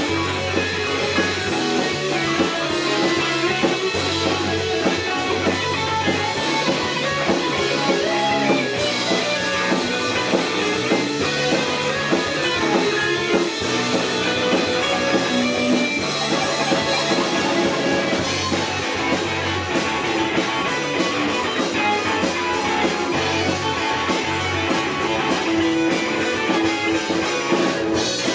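Rock band playing live: electric guitar and drum kit in an instrumental passage without vocals, at a steady, loud level.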